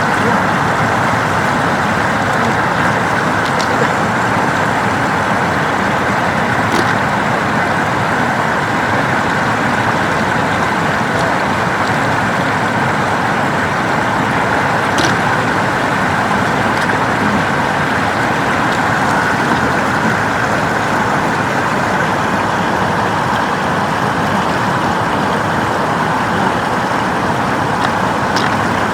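Steady rush of floodwater flowing over a road, with a few faint clicks.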